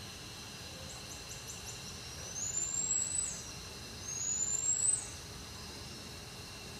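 A bird calling: a quick run of faint high chirps, then two loud, high rising whistles about a second long each, each ending in a sharp drop. A steady hiss and hum lies underneath.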